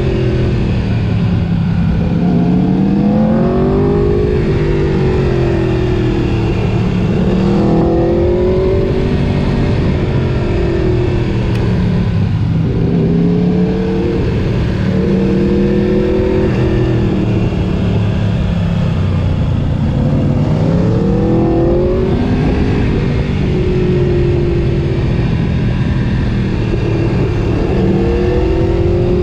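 Sport motorcycle engine revving up and down over and over as it accelerates, shifts and slows, its pitch climbing and dropping every few seconds.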